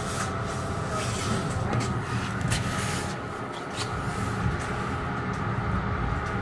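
Metro-North commuter train running slowly along the rails, heard from on board: a steady low rumble with a faint steady whine and brief sharp clicks now and then.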